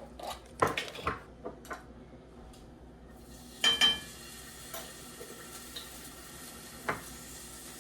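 Minced garlic being spooned into a hot pan: a few clicks and knocks, then a steady sizzle starting about three seconds in, with ringing clinks of a metal spoon on the pan twice.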